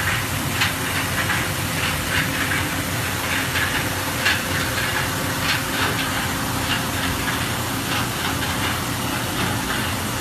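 Cincinnati Maxum 630 horizontal machining center running: a steady hum and hiss with irregular sharp ticks.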